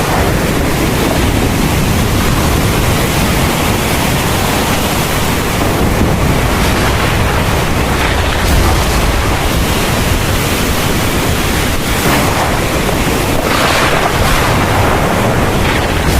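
Heavy rain pouring steadily during a thunderstorm, with a low rumble of thunder underneath. The hiss swells briefly a few times in the last few seconds.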